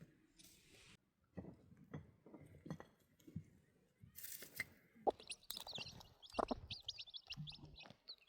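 Faint scattered crunching and knocking, joined about five seconds in by a run of short, quick, high-pitched chirps.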